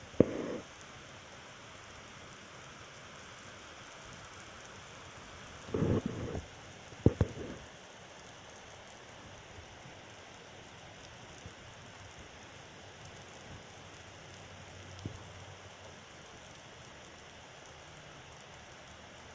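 Heavy rain falling steadily, with a few short loud thumps near the start and again about six and seven seconds in, and a faint low rumble of thunder about fifteen seconds in.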